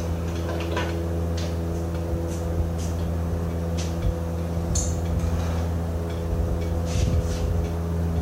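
An engine running steadily at a constant idle, with scattered light metallic clinks and taps of tools on steel parts.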